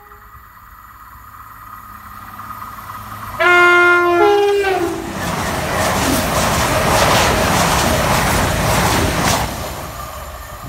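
Two coupled CrossCountry Voyager diesel units approach and sound a two-tone horn, a loud blast of about a second and a half that steps between two notes. They then rush past at speed with a rhythmic clatter of wheels over the rails, the noise fading near the end.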